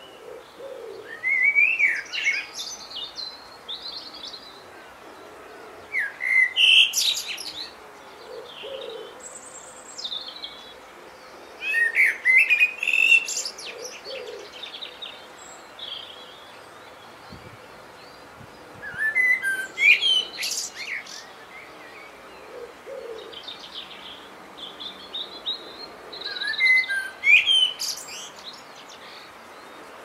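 A songbird singing loud phrases of quick whistles and twitters, each about two seconds long, a new phrase every six or seven seconds. A soft low call repeats in the background between the phrases.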